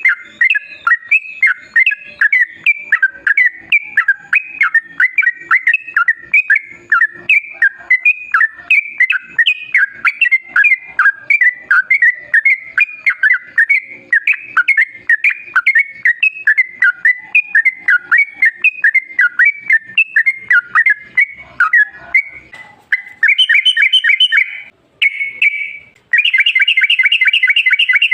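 Yellow-vented bulbul (trucukan) singing a long chattering run of quick, bubbly whistled notes. Near the end it switches to a fast, even trill, broken by a short pause.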